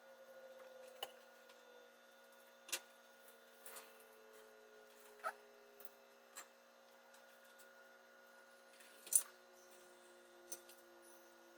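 A few faint, scattered clicks and taps, about seven, the loudest about nine seconds in, over a steady low hum and a faint tone that slowly sinks in pitch.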